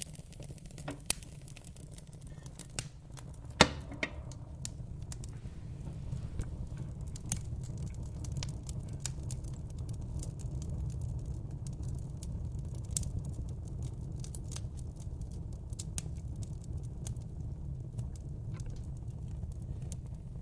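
Wood fire crackling: irregular sharp snaps and pops over a steady low rumble of flame, with one louder pop a few seconds in.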